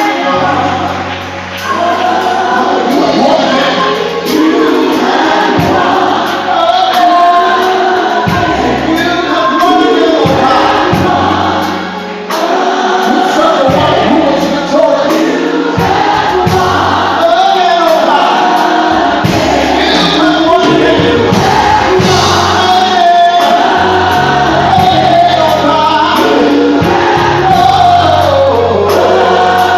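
Live gospel worship music: a choir singing with instrumental accompaniment, with held low notes that change every second or two beneath the voices.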